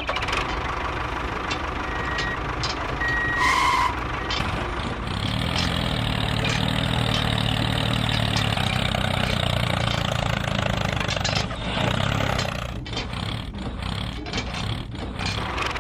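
Vehicle engine running steadily, fuller and heavier from about five to twelve seconds in, with a few short beeps about two to four seconds in.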